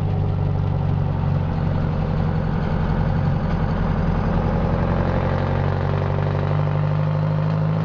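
Detroit Diesel 8V71 two-stroke V8 running steadily through straight pipes as the truck drives.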